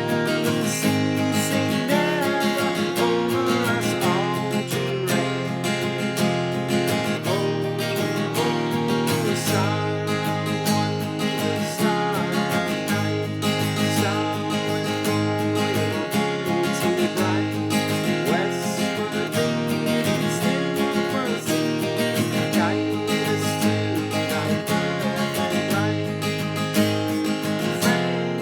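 Seagull S6 mahogany acoustic guitar strummed and picked in a steady run of chords, on fresh strings.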